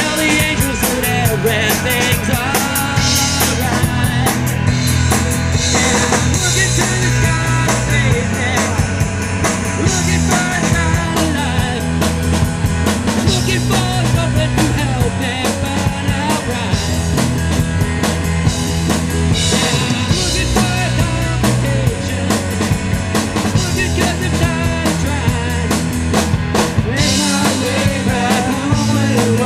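Live rock band playing, with a drum kit driving a steady beat under the guitars and other instruments.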